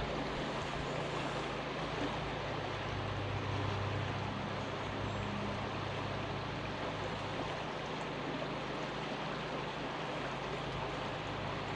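Steady rush of a river's flowing water, with a low steady hum underneath.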